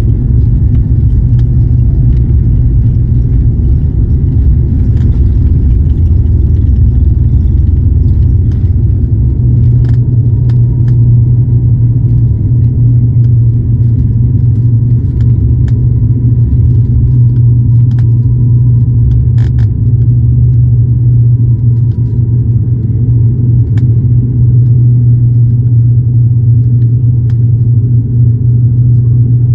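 Steady low drone of an ATR turboprop's propellers and engines heard inside the passenger cabin in cruise, with a few light rattles and clicks from the cabin.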